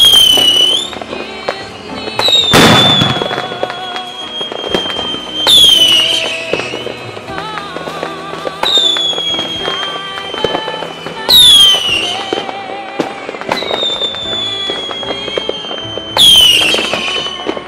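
Fireworks sound effect: a whistling firework about every three seconds, each starting suddenly with a whistle that falls in pitch, with a loud bang about two and a half seconds in. Background music plays underneath.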